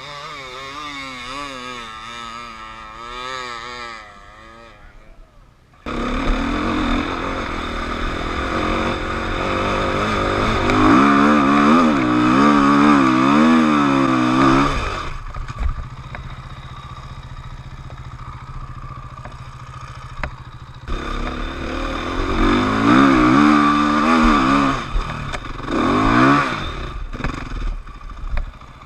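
KTM enduro dirt bike engine revving up and down repeatedly as it is ridden, its pitch wavering constantly. It gets suddenly louder about six seconds in, with two loud stretches of hard revving separated by a steadier, quieter spell.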